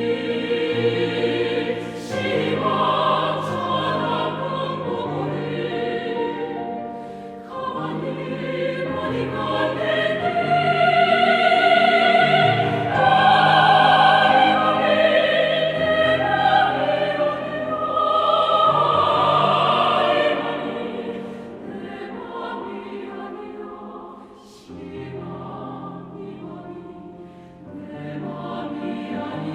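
Choir singing with piano accompaniment, swelling to its loudest through the middle, then falling back softer in the last third.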